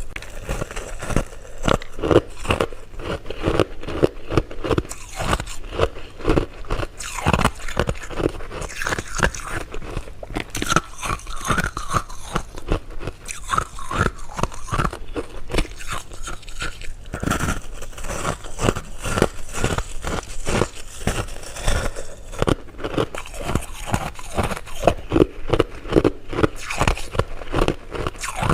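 Close-miked eating of candy: many quick crisp crackles of biting and crunching mixed with chewing, with no pause.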